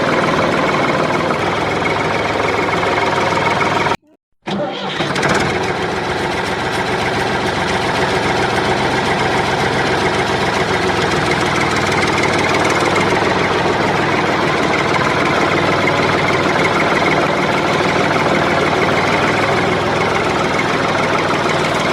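Small electric motor of a homemade toy tractor running steadily with a dense buzzing whir. It cuts out for about half a second around four seconds in, then runs on.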